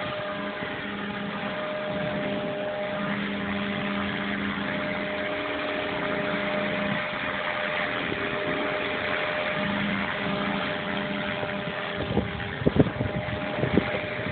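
Small electric Blade RC helicopter hovering: a steady motor and rotor drone with a rushing wind haze over it. About twelve seconds in, a run of loud, irregular thumps breaks in.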